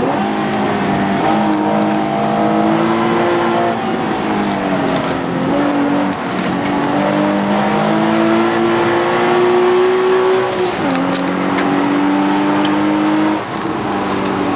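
Nissan 350Z's 3.5-litre V6 through a custom exhaust, pulling hard. The pitch climbs steadily, then drops sharply four times as it shifts up. Road and wind noise run underneath.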